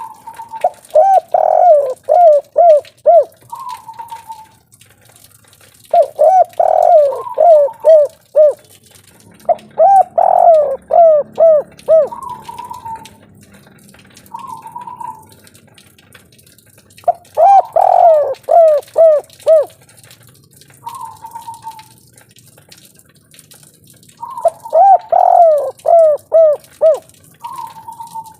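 Spotted dove (derkuku, tekukur) singing its 'kuk 3' call: five phrases, each a quick run of short coos followed after a pause by one separate coo, repeating about every six to seven seconds.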